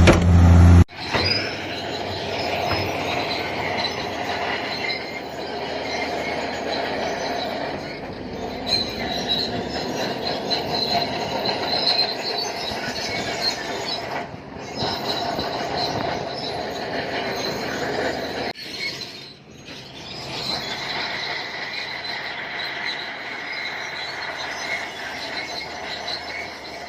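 Bulldozer's steel tracks squealing as the machine moves, a wavering high metallic squeal over the engine. A heavier, deeper engine sound cuts off abruptly about a second in, and the squeal briefly drops away twice later on.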